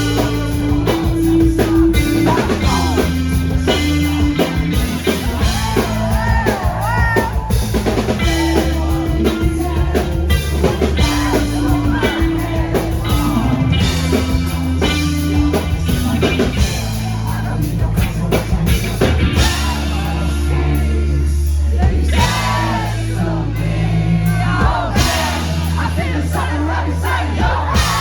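Live rock band playing: drum kit and sustained bass notes, with a singer's voice coming in and out over the band.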